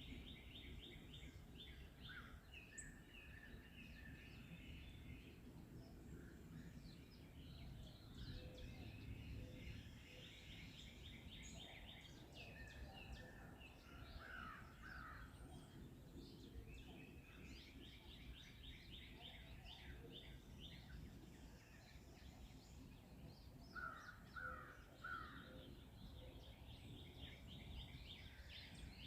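Several forest songbirds singing, faintly: rapid trilled songs repeat again and again, with a short run of lower call notes about halfway through and again near the end, over a soft low rumble of ambient noise.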